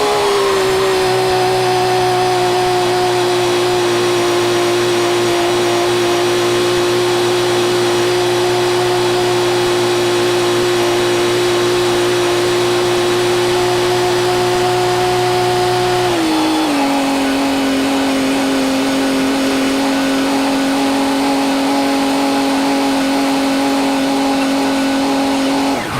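Tractor engine running steadily under load while filling a silage bag, a constant mechanical drone. About 16 seconds in the engine slows and settles at a lower pitch.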